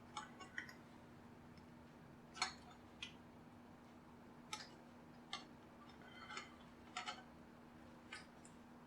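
Screwdriver prying at the plastic casing of a JBL Flip 2 speaker, working through the adhesive seal: scattered, irregular faint clicks and creaks of plastic, about a dozen, over a faint steady hum.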